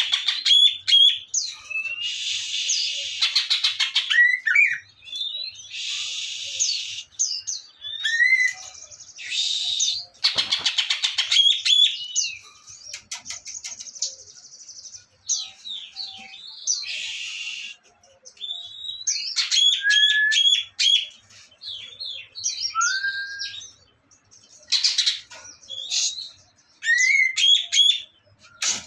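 Songbird song from a bird-tutoring (masteran) recording: a fast, varied run of chirps, short rising whistles and repeated harsh buzzy rattles about a second long.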